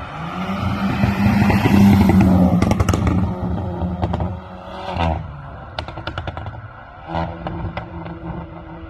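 Volkswagen Polo 1.2 TSI turbo four-cylinder, tuned to stage 2 with a downpipe and full exhaust, climbing to high revs about two seconds in and then dropping off, with a string of exhaust pops and crackles as it falls. Two shorter throttle blips follow, each trailed by more crackles.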